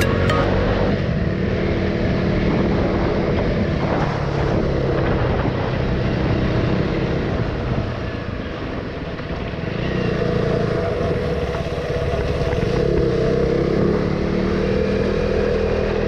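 KTM Duke 390's single-cylinder engine running while under way, its note rising and falling with the throttle and dropping off about halfway through, with a steady rush of wind on the microphone.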